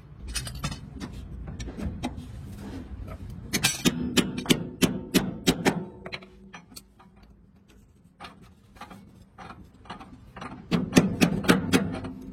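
A hammer striking metal in quick runs of blows, about four a second, twice, with a low steady hum underneath.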